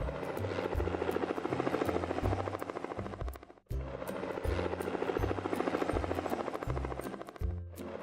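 Cartoon helicopter rotor sound effect, a fast steady chopping, over background music with a stepping bass line. Both cut out briefly about three and a half seconds in and again near the end, then start again.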